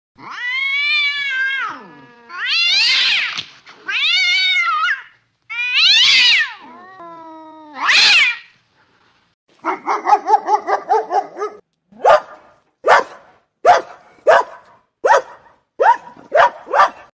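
Cats meowing: five long, wavering meows, then a stretch of rapid pulsed calls, then a run of eight short, sharp calls.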